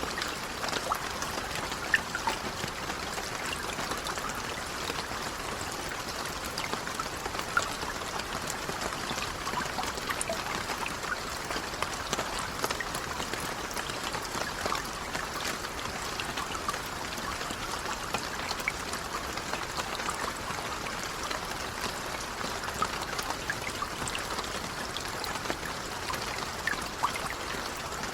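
Light rain falling: a steady patter of drops with many small scattered ticks and taps.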